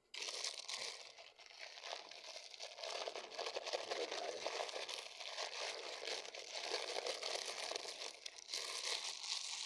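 Paper and plastic takeout food packaging crinkling and rustling continuously as it is handled and unwrapped, with some tearing.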